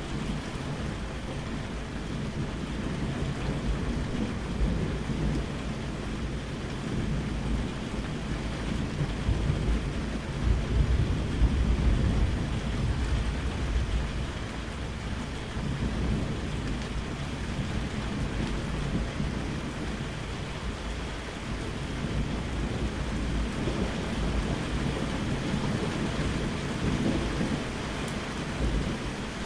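Steady rain falling with rolling thunder rumbling low underneath. The thunder swells to its loudest about ten seconds in, then dies back to a softer rumble.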